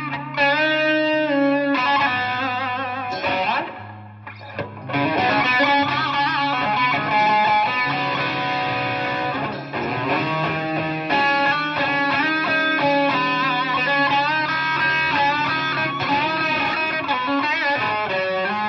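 Electric guitar, the Donner DST-100L, played through an amp: a lead line of sustained notes with string bends and wide vibrato over steady low notes underneath. It drops briefly quieter about four seconds in.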